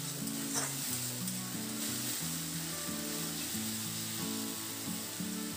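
Onion, ginger-garlic paste and tomato purée sizzling in mustard oil in a kadai as a metal spatula stirs them: the masala being fried down. Soft background music with held notes plays along.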